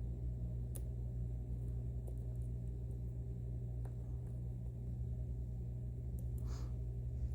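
Faint clicks and a brief scrape from lock picks working the pins and sliders inside a Mauer NW4 dimple lock, over a steady low hum. The scrape comes about six and a half seconds in.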